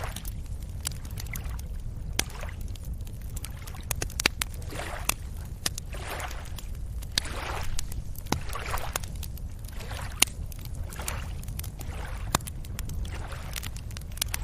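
Small waves washing and lapping at a beach's edge, each wash swelling and fading every second or two over a steady low rumble, with scattered sharp clicks.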